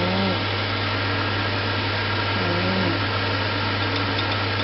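Steady hiss over a constant low hum while chicken is stir-fried with kaprao sauce in a pan, with a faint voice now and then.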